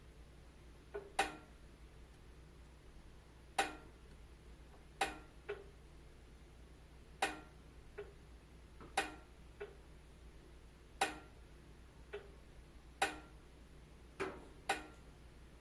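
Wood fire crackling: sharp, sparse pops at uneven spacing, one every second or two, over a faint steady low hum.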